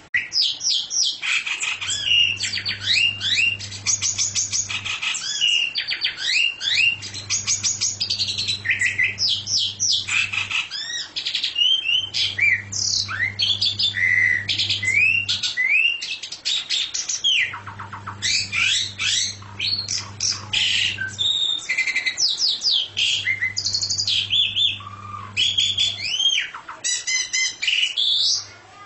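A songbird singing a long, varied song of rapid chirps, trills and whistled up-and-down notes with hardly a pause. Under it a low hum comes in and out every few seconds.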